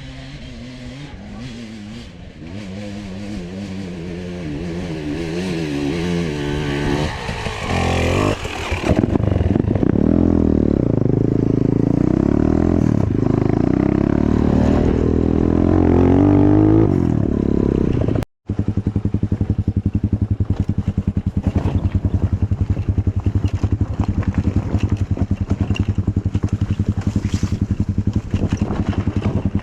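Enduro motorcycle engine ridden off-road, its revs climbing over the first several seconds, then loud with the pitch rising and falling as the throttle is worked. The sound cuts out for a moment about eighteen seconds in, then the engine runs on steadily with a fast even pulse.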